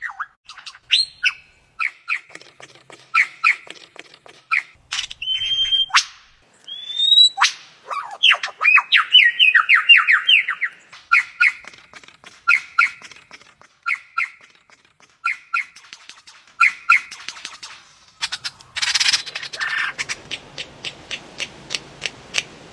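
A bird calling in a varied series: short two-note chirps repeated about once a second, a few rising whistles, and a quick run of falling notes. Near the end comes a harsher, noisier burst followed by a fast run of clicks.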